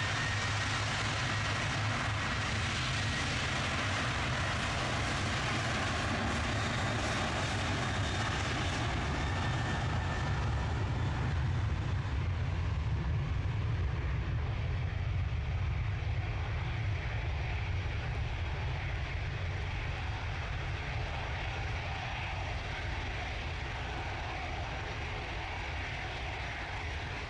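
Jet airliner's engines at takeoff power: a high whine that rises in pitch and then holds, under a deep roar that builds to its loudest about twelve seconds in and slowly fades as the aircraft passes and climbs away.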